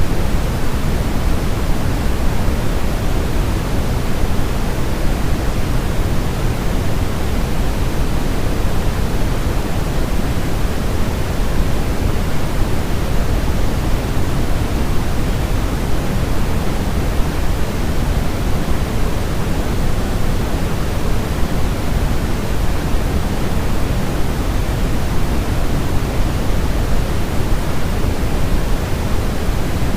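Steady synthetic noise for baby sleep, heavier in the lows than the highs like pink noise, with no change throughout.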